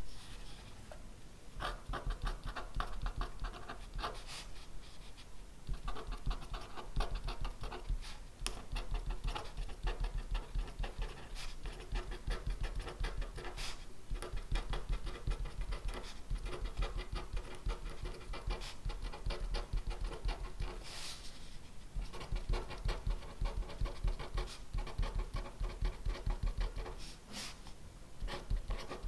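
Pen writing on paper: quick, continuous scratching strokes with a faint squeak, broken by a few louder brief sounds.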